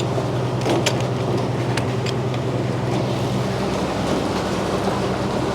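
Frick sawmill running steadily, a constant machine hum with a few light knocks.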